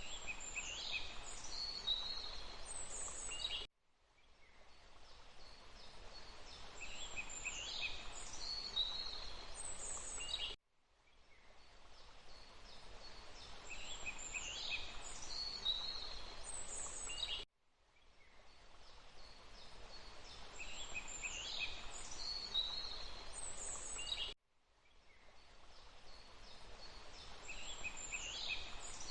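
Wild birds calling in quick high chirps over a steady rushing background of water. It is a short nature recording looped about every seven seconds: each pass fades in, the birds call, then it cuts off abruptly for a moment before starting again.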